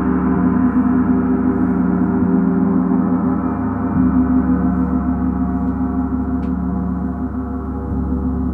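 Gong resonating in a sustained, shimmering wash of many overlapping tones, the kind of continuous gong playing used in a sound bath. It swells slightly about four seconds in.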